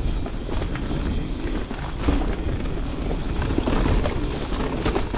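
Canyon Spectral 29 mountain bike riding down a dirt singletrack: tyres rolling over dirt and roots, with the chain and frame rattling in many small knocks over the bumps. Wind rumble on the microphone runs underneath.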